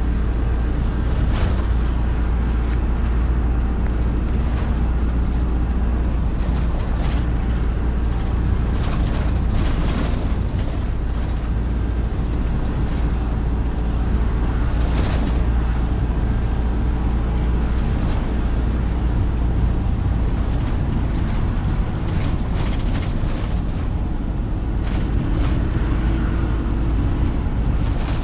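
City bus running on the road: a steady low engine and road rumble, with a few short rattles or knocks here and there.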